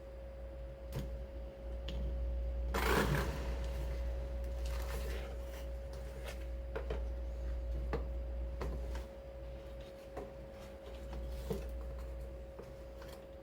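Toyota Crown GXS12's original heater blower motor running with a steady hum and irregular ticking clicks, the age-worn abnormal noise of an old blower motor, over a low rumble. A louder brief noisy burst comes about three seconds in.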